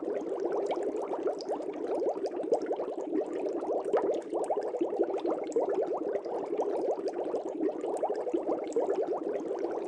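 Aquarium air bubbles rising and bubbling in a fish tank: a dense, continuous stream of small bubbly blips with no break.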